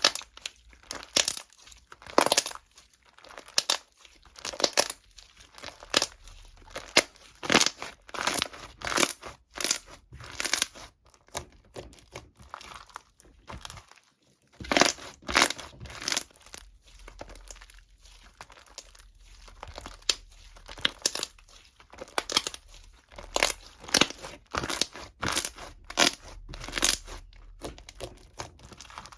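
Close-up crinkling and rustling, like something crumpled or torn by hand, in quick irregular bursts with a brief pause about halfway through.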